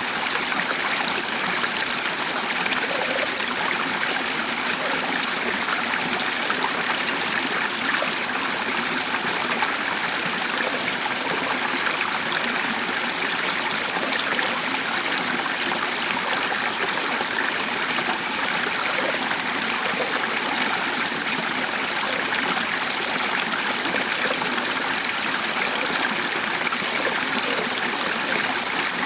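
Running water flowing steadily, an even rushing trickle with no change throughout.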